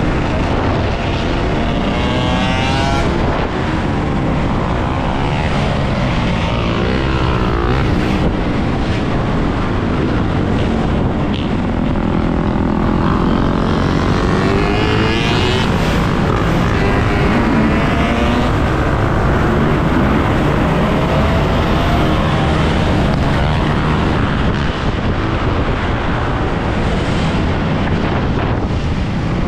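Dirt bike riding, its motor note rising and falling with the throttle over heavy wind noise on the microphone.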